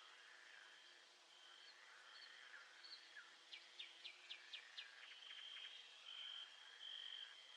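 Faint nature soundscape: a steady high trill of insects or frogs, pulsing on and off. About halfway through, a bird gives a quick run of about six short downslurred notes.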